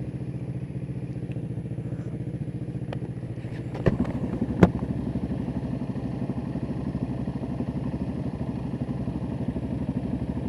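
Kawasaki EN500 Vulcan's parallel-twin engine running steadily, with two sharp clicks about four seconds in, after which the engine note pulses more.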